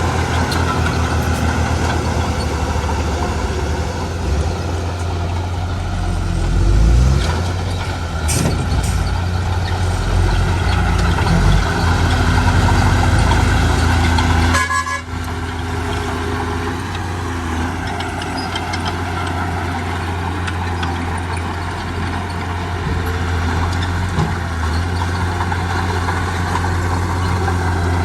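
Heavy diesel engine of a bulldozer or dump truck running steadily under load. There is a short dip and change in the sound about halfway through.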